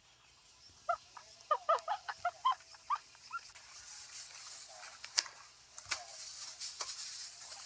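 A rapid run of about a dozen short, high-pitched animal squeaks over two seconds. After that comes a steady rustling hiss with a couple of sharp knocks.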